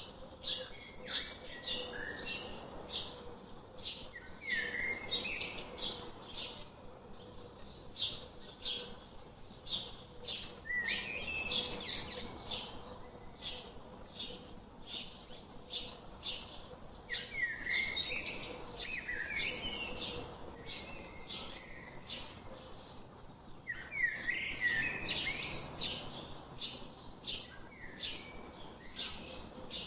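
Small birds chirping: a fast run of short, high chirps throughout, with louder sweeping call phrases about 4, 11, 17 and 24 seconds in.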